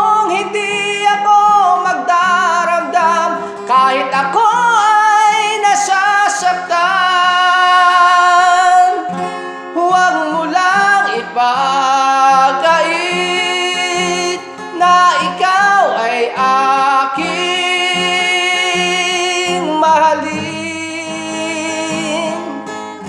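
A ballad sung over acoustic guitar, with long held vocal notes. The song winds down near the end, the voice dropping away and the guitar carrying on more softly.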